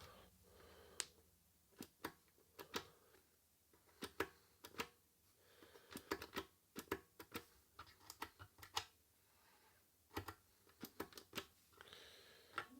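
Irregular small clicks and taps from handling a Blackstar Fly 3 Mini guitar amp's plastic case and controls while trying to power it up; the amp itself makes no sound.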